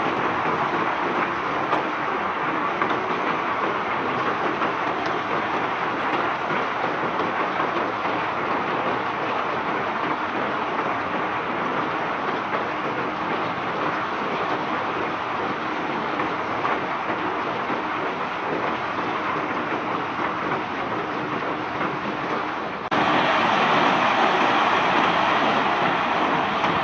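Cobblestones pouring off a barge in a continuous dense rattle of stone on stone and metal. The rattle steps up abruptly, louder and brighter, about 23 seconds in.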